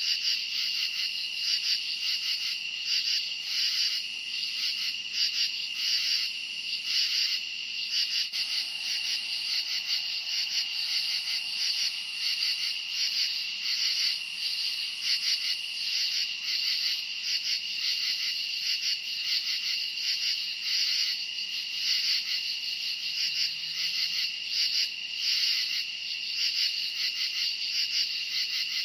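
Night chorus of crickets chirping: a steady high trill with pulsing chirps layered over it, going on without a break.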